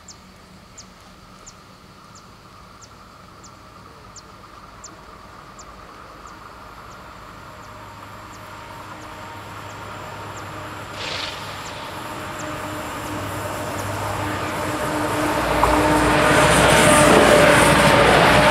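Level crossing bell ringing about one and a half strokes a second, fading under the growing noise of an approaching Trenitalia regional diesel multiple unit. The train's noise rises steadily until it reaches the crossing near the end, with a short burst of noise about eleven seconds in.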